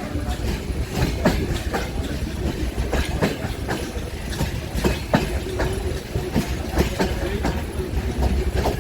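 Intercity passenger train rolling past at low speed, wheels clicking over the rail joints again and again above a steady low rumble.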